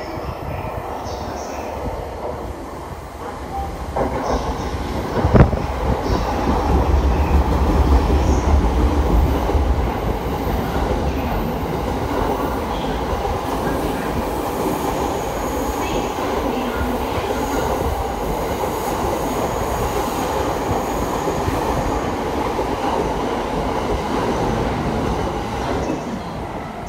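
JR East E231-series electric train running through a station platform without stopping: the sound builds as it nears, then a steady heavy rumble and rush of wheels on rail continues as the cars go by. A single sharp knock stands out about five seconds in, the loudest moment.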